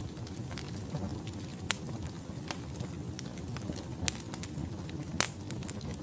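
Wood logs burning in a fireplace: a steady low rumble of flame with frequent small crackles and three sharper pops.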